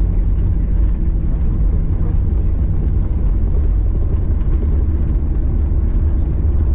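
Airliner cabin noise heard from a passenger seat: a steady, loud low rumble of engines and airflow, with a faint steady hum.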